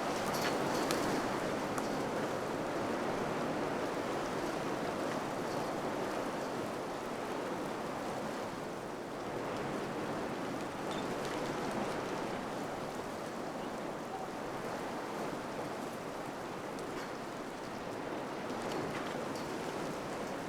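Wind blowing in gusts: a continuous rushing that swells and eases every several seconds, with a few faint light ticks near the start and near the end.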